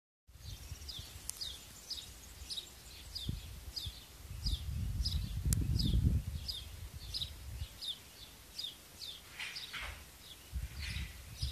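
A bird repeating a short, high, falling chirp roughly every half second, over a low rumble on the microphone that swells in the middle.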